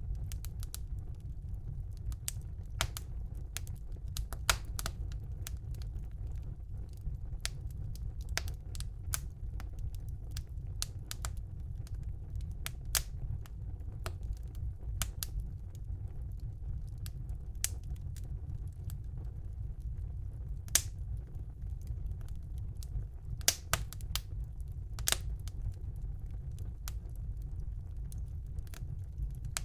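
Wood fire burning in a fireplace: a low, steady rumble of the flames with irregular sharp crackles and pops, a few louder snaps scattered through.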